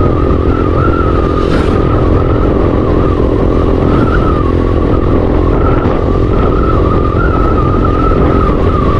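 Motorcycle riding along a road: a steady engine hum under heavy wind rush on the microphone, with a thin wavering whine throughout.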